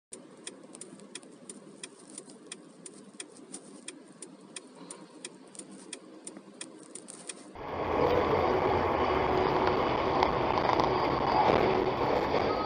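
Car dashcam audio: light, even ticking about three times a second over a low engine hum. About seven and a half seconds in it cuts abruptly to much louder road and engine noise.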